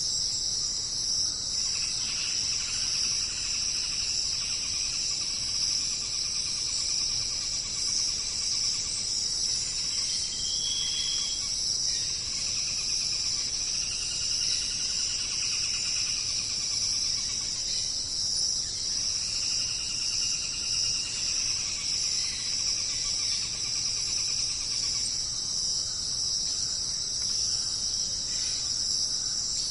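Chorus of crickets and other jungle insects: a steady high-pitched trill, with a second, lower pulsing call coming and going several times.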